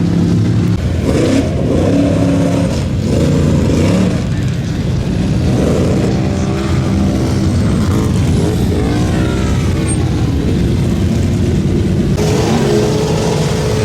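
Mud-bog truck engine revving hard, its pitch climbing and dropping again and again as the throttle is worked. The sound turns harsher and brighter near the end.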